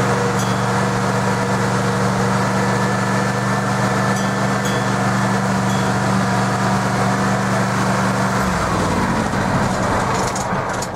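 Gasoline engine of a trackless road-train locomotive running at a steady note, then about eight seconds in its pitch falls away over a couple of seconds as the train slows.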